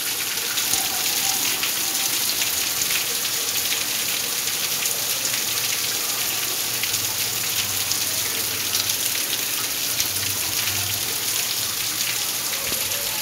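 Heavy rain falling steadily on a clay-tile roof: a dense, even hiss with the patter of countless individual drops.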